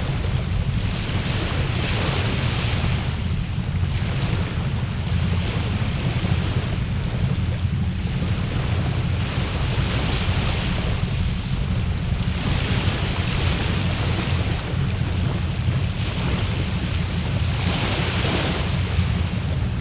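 Wood bonfire burning, a steady low rumble with scattered crackles, and a thin steady high-pitched whine running alongside.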